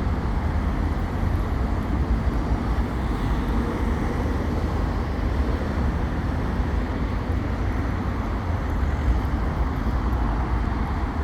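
Steady road traffic noise, a continuous vehicle rumble that is heaviest in the low end.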